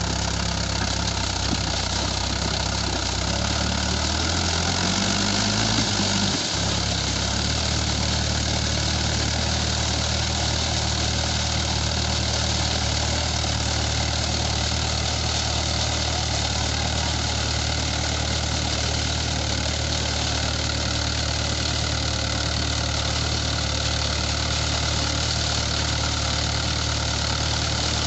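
Tractor engine running steadily. About five seconds in, its speed rises briefly, then drops back and settles.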